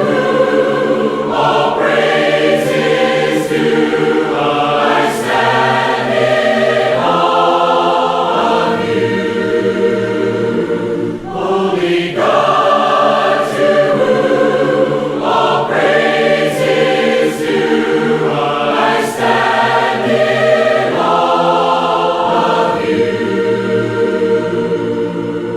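A choir singing a hymn in harmony, in long held phrases. The sound fades near the end.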